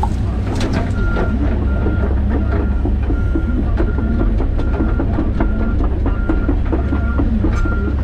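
John Deere 130G excavator's diesel engine running steadily under work, with sharp knocks and cracks from the machine and the brush it is clearing. From about a second in, a backup alarm beeps at an even pace, roughly twice a second.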